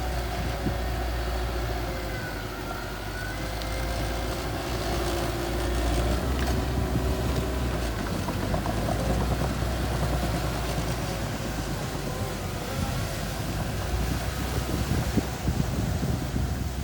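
Mini bulldozer's engine running steadily under work, a continuous low hum with faint higher whines over it.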